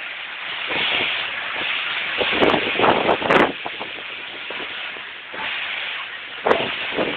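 Strong wind rushing over the microphone, with harder gusts buffeting it about two and a half seconds in and again near the end.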